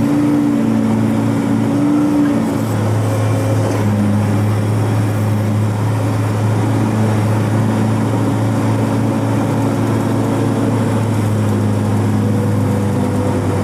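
Heavy rubber-tired log-handling machine's diesel engine running steadily, heard from inside its cab as a constant loud drone. A few tones above the drone shift in pitch during the first few seconds.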